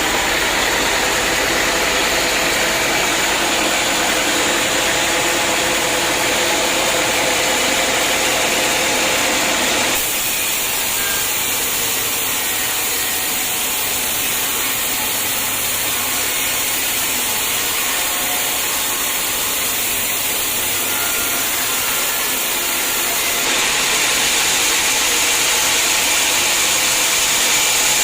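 Engine-driven sawmill saw cutting through a hard acacia log: a steady, loud mix of engine and blade noise. The sound shifts abruptly about ten seconds in and again a few seconds before the end.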